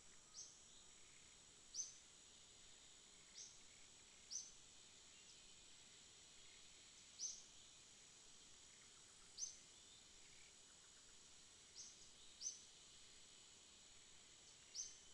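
Faint night ambience: a steady high-pitched insect drone, with short single high chirps every one to three seconds that stand out as the loudest sounds.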